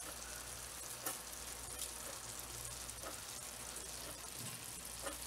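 Steak pieces frying in a pan on medium heat: a steady, soft sizzle, with a few faint clicks.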